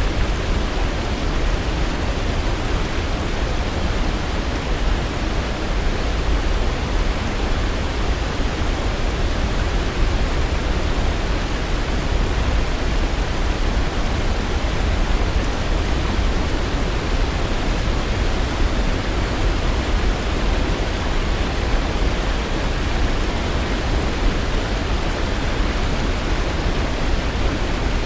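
Waterfall running with a steady, unbroken rush of falling water, heaviest in the low end.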